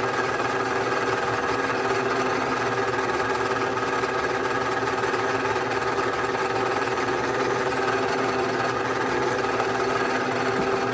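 Bridgeport-type vertical milling machine running: a steady mechanical whir with several steady tones, holding an even level throughout.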